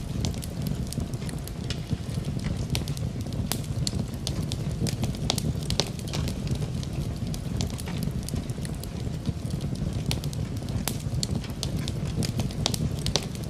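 Wood fire in a fireplace crackling, with frequent sharp irregular pops over a steady low rumble, mixed with rain.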